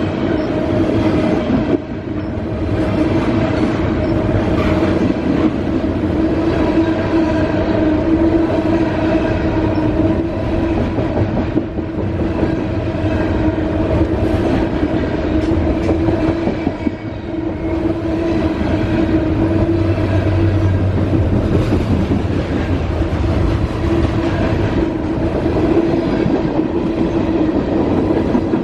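Freight train cars (boxcars, tank cars and gondolas) rolling steadily past close by: a continuous rumble, with wheels clattering over the rail joints and a steady droning tone.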